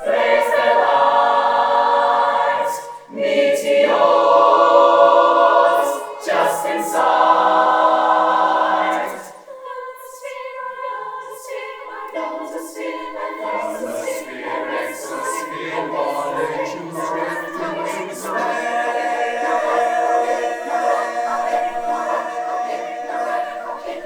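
Choir singing held chords in phrases broken by short pauses, dropping to a much softer sustained chord about nine and a half seconds in.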